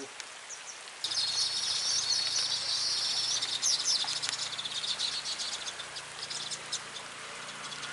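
Weaver bird chattering: a dense run of rapid high calls starts suddenly about a second in and thins to scattered chirps after the middle.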